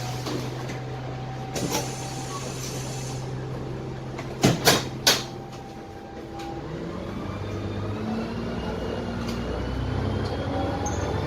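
Dennis Trident double-decker bus with a Cummins ISMe diesel engine idling steadily, then three short loud sharp sounds about halfway through. The engine then pulls away, its pitch and the Voith automatic gearbox's whine rising slowly as the bus gathers speed.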